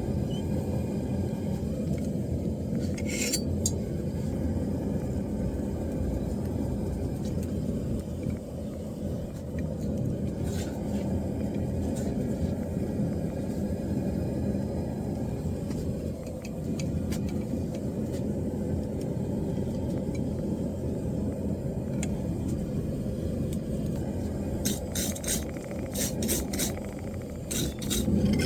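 Steady low rumble of a running blacksmith's forge, with a few faint sharp metallic clicks and a quick run of them near the end.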